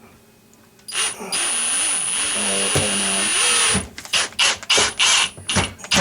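A cordless drill/driver runs for about three seconds with a steady high whine, then gives about six short bursts on the trigger. It is driving screws to secure the new dishwasher.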